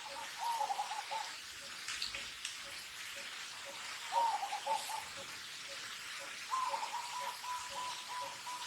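Baby macaque crying: thin, wavering high-pitched calls in three bouts, the last one longer and steadier, over a steady hiss.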